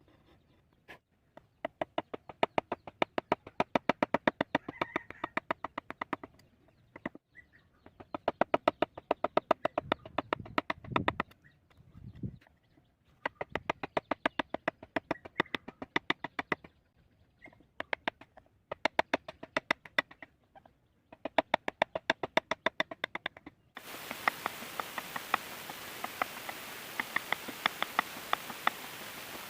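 Carving chisel driven into wood by quick, even mallet taps, several a second, in runs of a few seconds with short pauses between. A steady hiss joins in near the end.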